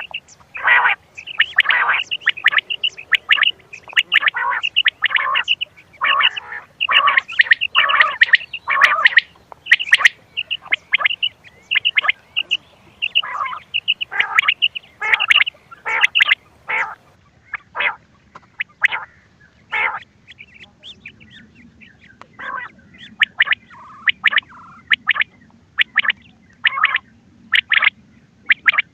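Quail calling from a hunting-lure cassette: a fast run of short, sharp calls, several a second. The calls thin to a brief lull a little past the middle, then start again at a sparser, more even pace.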